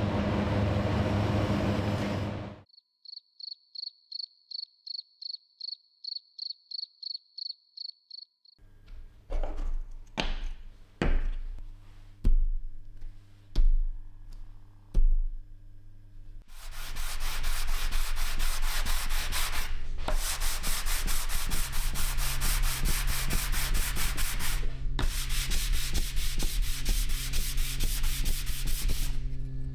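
Workshop power tools. A machine runs and cuts off; a high electronic beep repeats about two and a half times a second for around six seconds; a string of separate knocks and clicks follows. Then a power tool runs with a fast, even pulsing noise over a low hum, stopping briefly twice.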